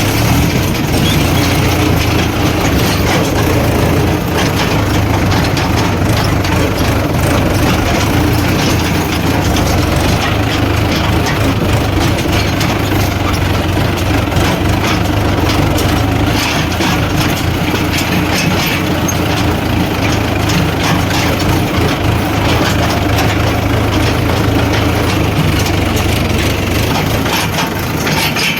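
Heavy diesel engine running steadily under work, the sound of earth-moving machinery loading mud.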